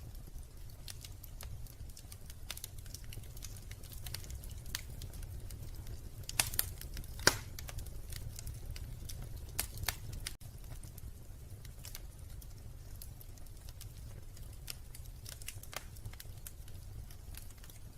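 Wood fire crackling in a fireplace: scattered small pops and snaps, with a few louder pops about six to seven seconds in, over a steady low rumble.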